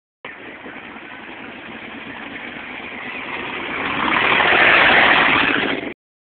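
Car engine revving hard during a burnout, building steadily in loudness to a peak about five seconds in, then cut off abruptly.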